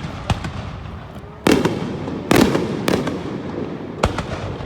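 Aerial fireworks shells bursting: a few small sharp pops in the first second, then loud booms about a second and a half in, just over two seconds in, near three seconds and about four seconds in, each followed by a rumbling echo that dies away.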